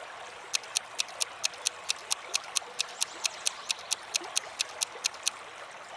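Countdown timer sound effect: a clock ticking quickly and evenly, about four to five ticks a second, stopping shortly before the end, over a faint steady hiss.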